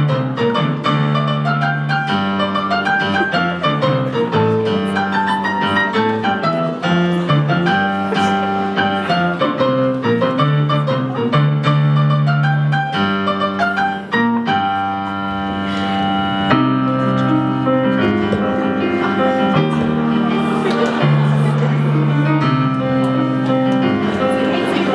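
Piano being played, a continuous solo piece of quick successive notes and chords over a steady bass line, with a brief drop in level a little past halfway.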